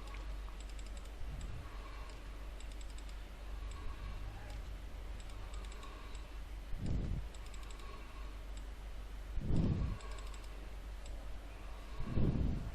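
Computer keyboard typing and mouse clicks, faint and scattered, over a low steady hum, with a few louder muffled low thumps about a third, three quarters and nearly all the way through.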